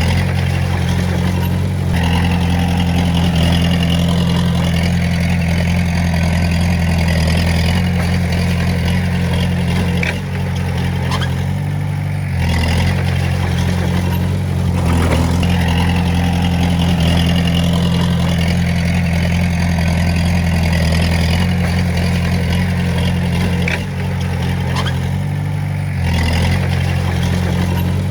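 Diesel engine of a Komatsu D20A bulldozer running steadily, its note dropping and picking up again several times as the load changes.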